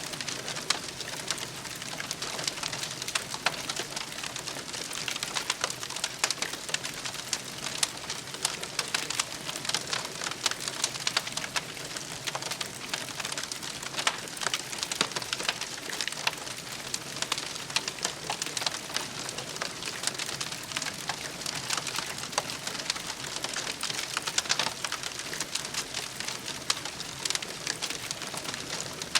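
Wood campfire crackling: a steady hiss with a dense, irregular stream of small snaps.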